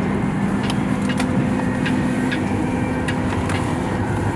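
Steady low mechanical hum with a few held tones, one of which drops out near the end, and scattered light clicks.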